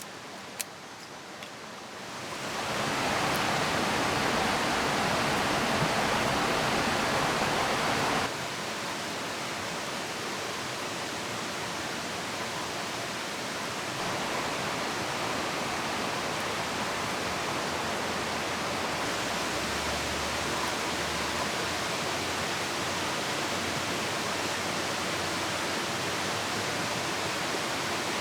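Steady rushing of a river mixed with rain. It fades up about two seconds in, drops abruptly to a lower level around eight seconds in and steps up again around fourteen seconds, as separate edited-together takes of the ambience.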